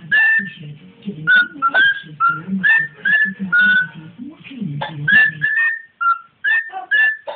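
Cockatiel whistling a song of short, clear notes, about two or three a second, many sliding slightly up in pitch, with a brief pause about six seconds in.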